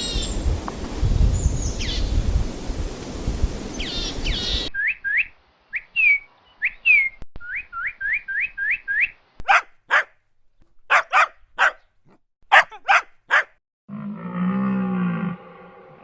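A run of different animal calls cut one after another: high falling chirps over a noisy background, then a quick series of short rising chirps, then several short sharp calls, and near the end a low, wavering pitched call.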